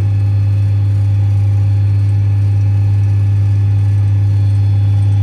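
Combine harvester's engine running with a steady low drone while it unloads grain.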